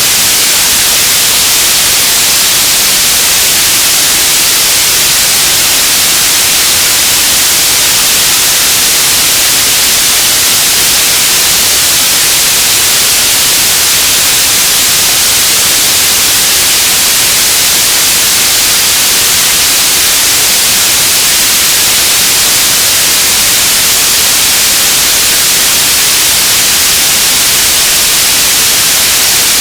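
Radio static: a loud, steady hiss, strongest in the treble, with no tones, voices or breaks in it.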